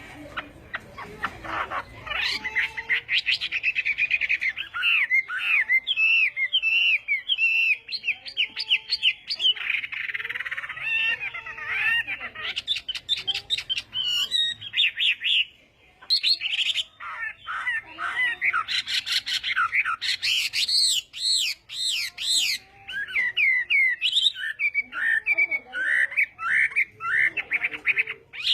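Chinese hwamei (họa mi) singing a long, varied song of rapid whistled and slurred phrases, with a brief pause about midway.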